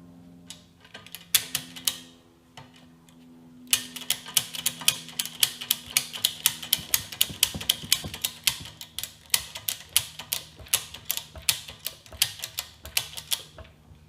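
Ratchet tie-down strap being cranked tight, its pawl clicking about three to four times a second in a long run after a few first clicks.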